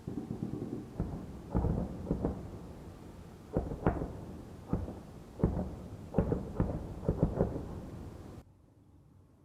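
A series of booming blasts during a drone attack: about a dozen sharp bangs at uneven intervals with low rumbling between them. The sound cuts off suddenly near the end.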